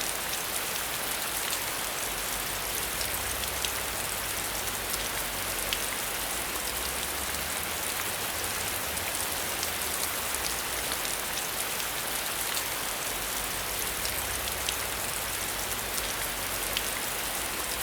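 Steady rain falling and pattering on surfaces, a constant hiss with scattered sharper drop ticks.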